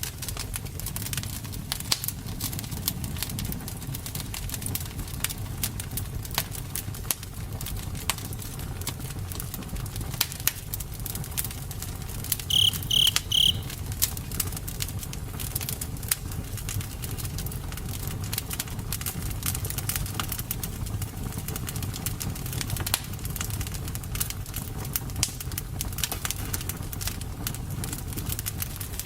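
Campfire burning: a steady low rumble with frequent sharp crackles and pops from the burning wood. About halfway through, four short high chirps come in quick succession.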